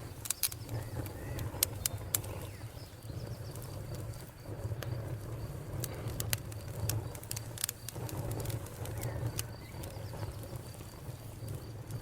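Wood fire crackling, with sharp irregular pops and snaps over a steady low rumble of burning logs. The loudest pops come in the first two seconds.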